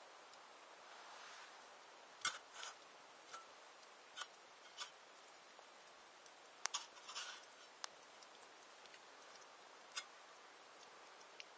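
Campfire crackling: a scattering of sharp pops and small clusters of clicks, irregular and a second or more apart, over a quiet background.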